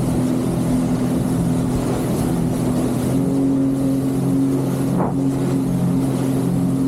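Jet ski engine running steadily at speed; its note steps up slightly about halfway through. A brief thump comes about five seconds in.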